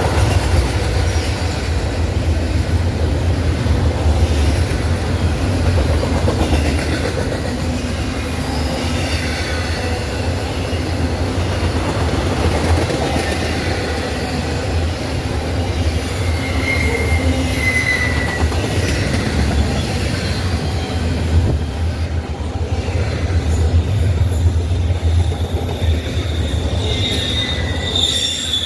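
Train rolling past with a steady low rumble of wheels on rail, and thin, high wheel-squeal tones about two-thirds of the way through and again near the end.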